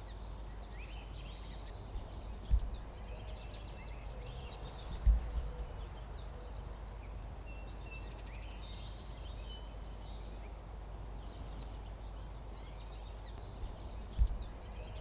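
Several small birds chirping and singing over a steady low rumble, with three brief low thumps, the loudest sounds, about two and a half, five and fourteen seconds in.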